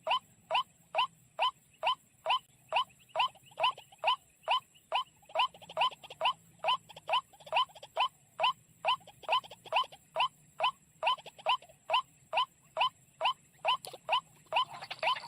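A bird call: a short chirp that sweeps upward in pitch, repeated steadily about twice a second. A hiss comes in under it near the end.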